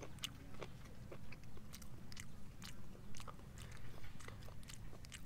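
A person chewing boiled freshwater snail meat close to the microphone: small, irregular wet clicks of the mouth.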